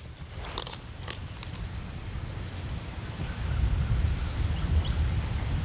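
Wind rumbling on the microphone, growing stronger about halfway through, with small songbirds chirping in high, thin phrases over it.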